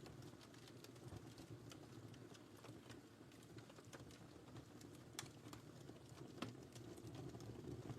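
Wood fire in a fireplace crackling faintly: scattered sharp pops and snaps over a low, steady rumble of the flames, with two louder pops about five and six seconds in.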